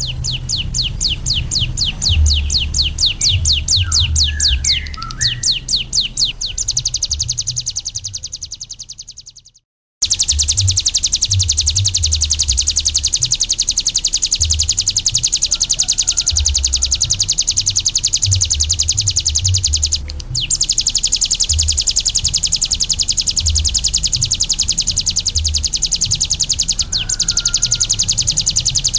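Ciblek gunung, a prinia, singing a very fast, high, buzzing trill of rapid repeated notes. The trill fades out, cuts to silence a little before ten seconds in, then starts again abruptly and runs on. Uneven low rumbling runs underneath.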